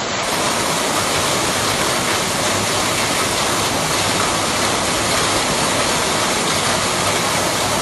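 Heavy tropical downpour on a flooded street: a steady, loud rushing of rain falling and floodwater running over the road.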